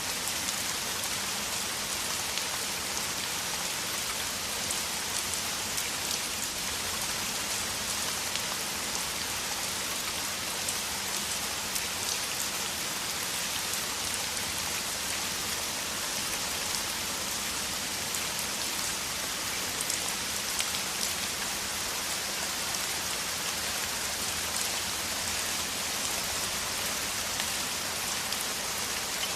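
Heavy rain falling steadily in a downpour: an even hiss with fine patter of drops, unchanging throughout.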